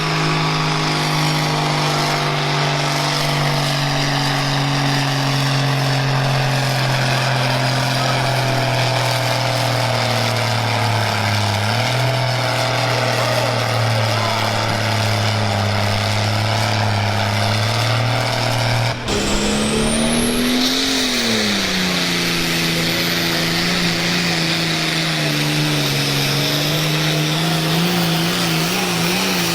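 International Harvester pulling tractor engine running hard at steady high revs. About two-thirds of the way through the sound cuts abruptly to an engine whose pitch rises and falls once, then holds steady again.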